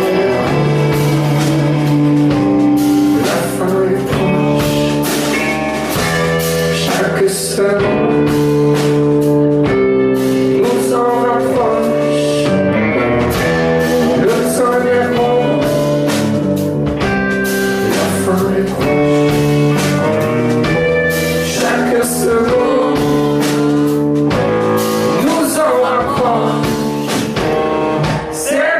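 Live band music: guitar, bass and drums playing a slow, held chord progression, with a singer's voice over it.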